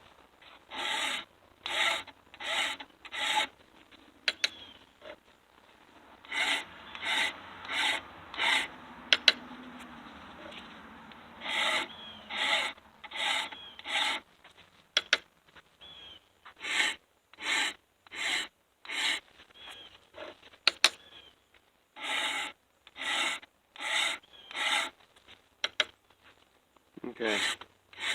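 Hand file scraping across the depth gauges (drags) of a chainsaw milling chain, in sets of three to five quick strokes with short pauses between as the chain is moved along.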